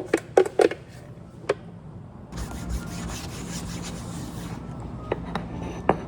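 A few quick light taps, then about two seconds of steady rubbing noise, then a couple more taps: objects being handled and rubbed.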